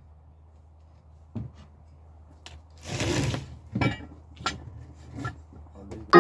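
Wood being handled: a few scattered knocks and one short scraping stroke about three seconds in.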